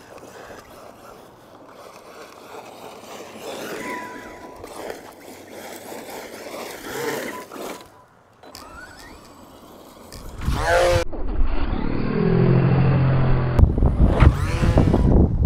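Arrma Mojave brushless RC short-course truck driving on dirt: electric motor whine rising and falling with the throttle, with tyre and gravel noise. It turns much louder from about ten seconds in, with sweeping pitch as the truck passes close.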